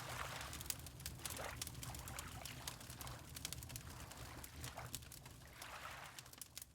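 Fireplace crackling with sharp pops over a low steady rumble, mixed with water lapping in soft swells every second or so. The sound fades out near the end.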